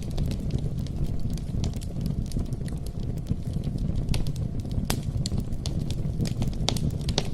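Campfire burning with a steady low rumble, with irregular sharp pops and crackles.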